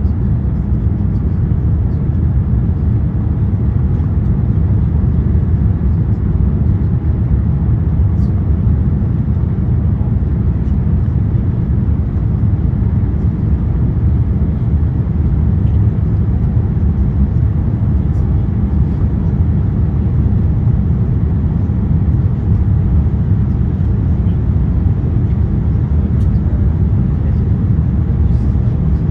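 Steady, even cabin rumble of an Airbus A350-900 in its climb after takeoff: the Rolls-Royce Trent XWB engines and airflow, heard from inside the cabin.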